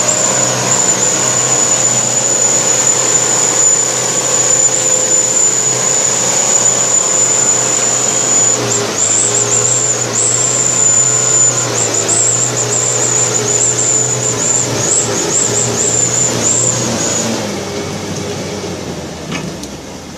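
Truck engine running hard under load, its pitch wavering in the middle, with a high steady whine over it; the sound fades down over the last few seconds.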